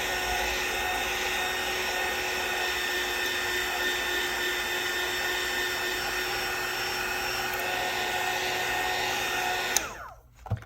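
Heat gun blowing hot air onto a phone's back glass to soften the adhesive, a steady fan noise with a whine, switched off with a click near the end.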